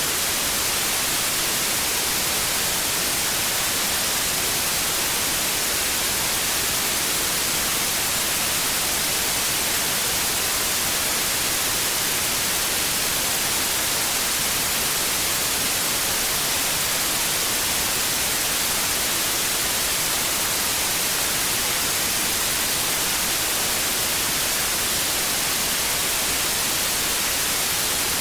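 TV static: a steady, even hiss like white noise, bright and treble-heavy, with no change in level.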